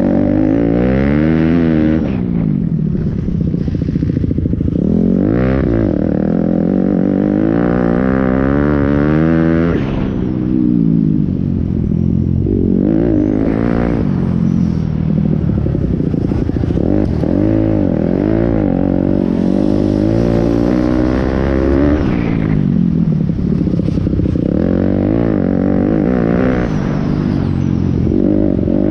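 Pit bike engines racing, revving up and falling back over and over as the riders accelerate and shift, with more than one engine heard at times.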